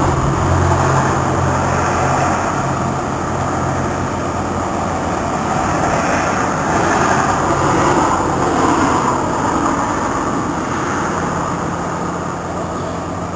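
Street traffic noise: a steady rush of passing vehicles, with a low engine hum that fades out and comes back near the end.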